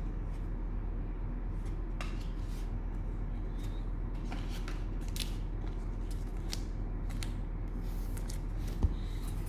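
Trading cards and packs being handled: scattered short rustles and clicks of cards sliding and flicking over a steady low hum, with one dull knock near the end.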